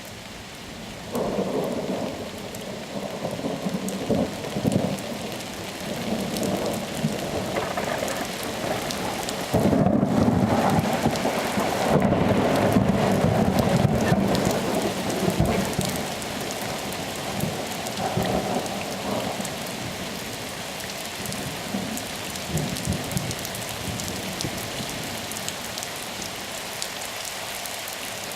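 Thunderstorm: steady rain falling with rolling thunder. A loud peal breaks in suddenly about ten seconds in and rumbles for several seconds before fading into the rain, with fainter rumbles before and after.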